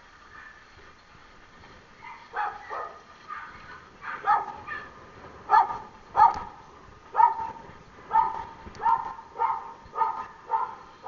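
A dog barking over and over, more than a dozen short barks starting about two seconds in, coming about every half second to second, loudest around the middle.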